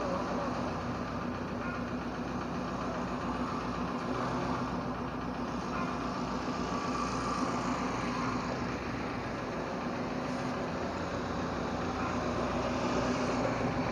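A car engine running steadily at low revs as the MPV is inched forward, a steady hum with no sudden sounds.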